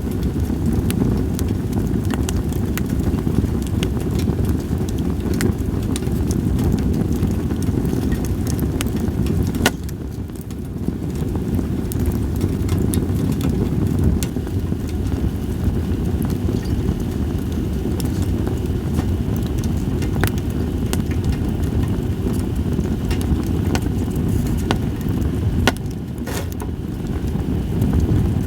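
Campfire of split sawtooth oak (kunugi) logs crackling, with sharp pops scattered irregularly over a steady low rumble.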